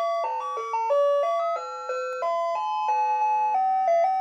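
Ice cream truck's electronic chime jingle playing a melody, one bell-like note after another, several notes a second.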